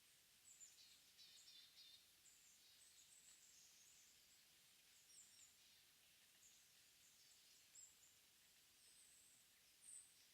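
Faint ambient forest sound: scattered short, high-pitched chirps and trills of small wild birds over a soft hiss, with a slightly louder call near the end. The calls are not those of the Mugimaki Flycatcher.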